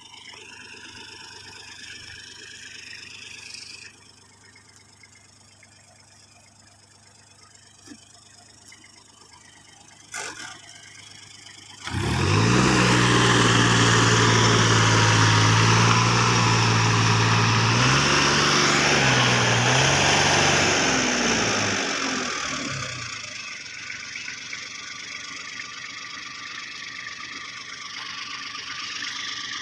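A heavy machine's engine comes in suddenly about twelve seconds in and runs loud with a steady low pitch. It dips briefly near the twenty-second mark, then falls away to a fainter steady hum.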